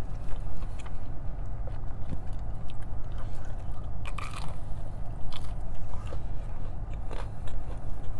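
Close-miked biting and chewing of a piece of breaded fried chicken, with many small wet mouth clicks and a louder bite about four seconds in. A steady low hum runs underneath.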